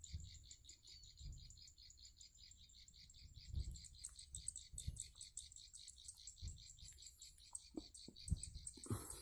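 A rapid, high-pitched chirping trill, about eight pulses a second, keeps going throughout, with scattered soft low thumps from handling close to the microphone.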